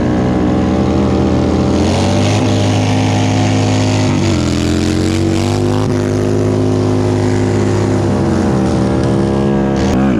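Sportbike engine held at high revs during a burnout, with a steady high engine note and the hiss of the spinning rear tyre over it. The revs dip briefly about four seconds in and again near the end.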